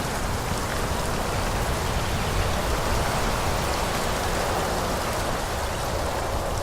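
Steady rushing of wind through forest trees, with a low rumble underneath and no distinct events.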